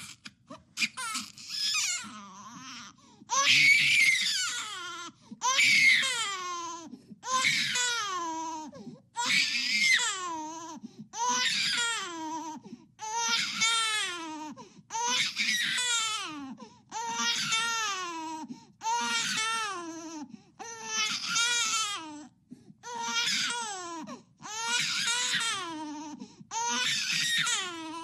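An infant crying in a steady run of wails, one about every two seconds, each starting high and falling in pitch.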